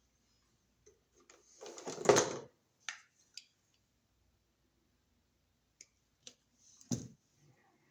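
Hand tools and electrical wires being handled: a short scraping clatter about two seconds in, a few small clicks, and one sharp knock near the end.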